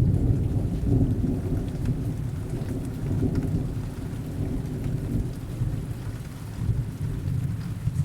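Heavy rain falling steadily with a low rumble of distant thunder that swells and fades.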